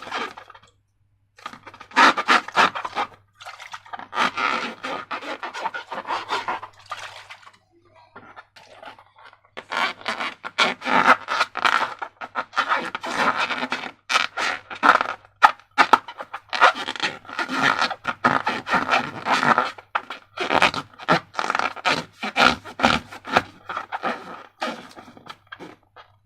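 Slime and rubber balloons being handled: irregular squishing, crackling and scraping in quick clusters, with a couple of short pauses.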